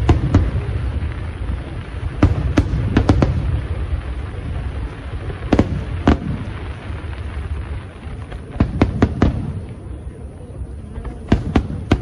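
Aerial fireworks bursting: sharp bangs in clusters of two to four every two to three seconds, over a steady low rumble.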